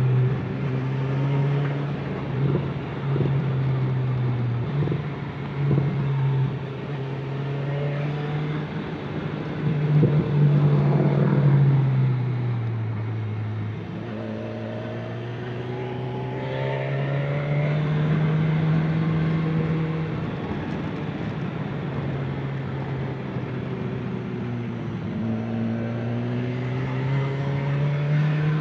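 A vehicle engine running under way, its pitch climbing and falling as it speeds up and slows down, with a marked drop about halfway through and a slow rise again afterwards.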